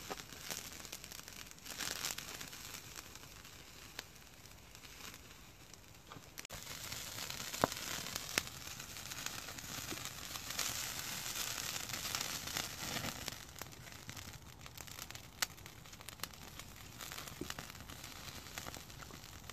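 Thin-sliced pork belly sizzling on a grill grate over a wood campfire, with sharp pops and crackles from the fire now and then. The sizzle grows louder for several seconds in the middle.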